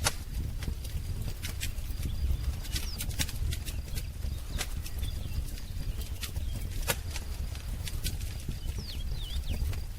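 Wood fire crackling, with irregular sharp pops over a low steady rumble. A few faint bird chirps come in near the end.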